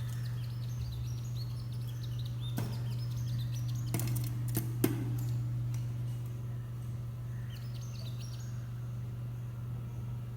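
Small birds chirping in quick runs of short high notes, with a few sharp clicks around the middle, the loudest about five seconds in, over a steady low hum.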